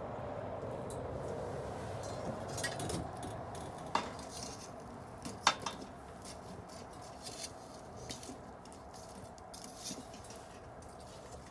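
Wood bonfire burning with a steady low rush and scattered crackles, with two sharp pops, about four and five and a half seconds in; the second is the loudest.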